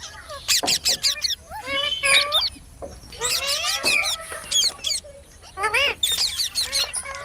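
Parrots calling: bouts of rapid, high-pitched squawks and chirps that rise and fall in pitch, broken by short pauses.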